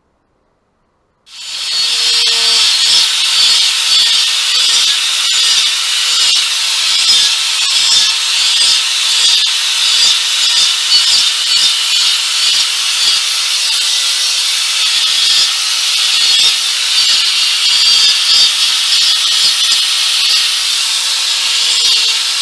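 Angle grinder starting up and cutting a channel into a brick and mortar bathroom wall: a loud, steady grinding with a constant whine, starting about a second in.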